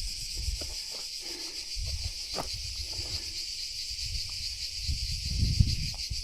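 Steady high insect chorus. Underneath it there is an on-and-off low rumble and a few light clicks.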